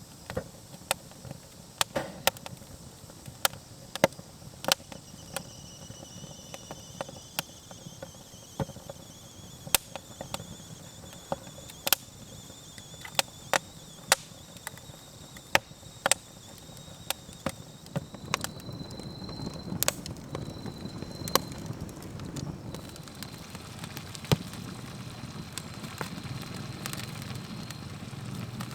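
Wood campfire crackling, with irregular sharp pops. A low rushing noise builds from about two-thirds of the way in.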